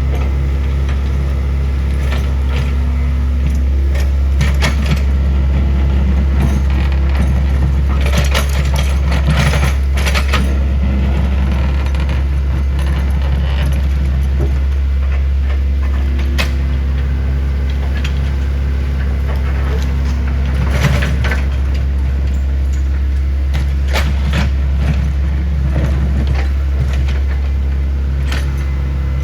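Heavy diesel engine of an excavator running steadily, with scattered metallic clanks and crashes as the machine works.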